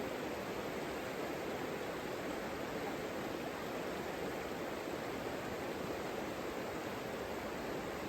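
Savica river water flowing: a steady, even rush.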